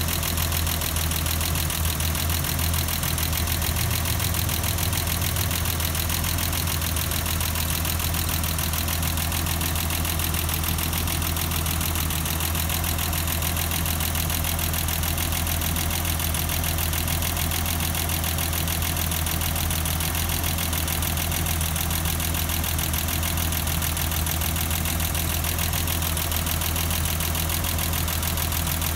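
1989 BMW 325i's M20B25 straight-six engine idling steadily.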